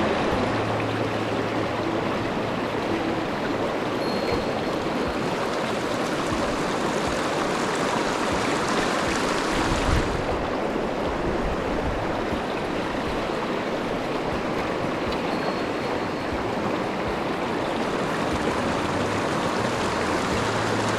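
Mountain stream water rushing steadily over rocks, a constant rush of running water.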